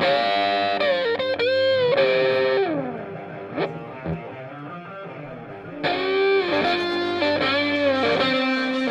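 Background music: an electric guitar with effects playing a melodic lead with bends and slides.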